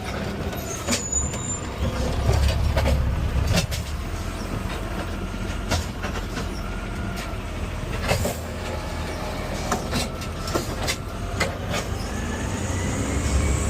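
Garbage truck running, heard from the cab: a steady engine rumble that swells for a moment early on, with frequent knocks and rattles from the truck and a faint rising-and-falling whine.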